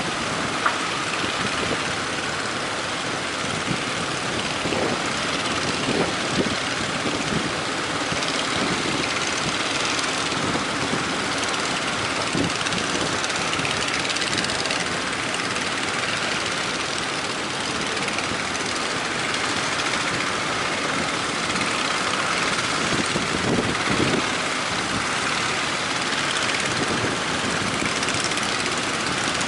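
Strong wind and breaking sea waves: a steady, loud rushing noise.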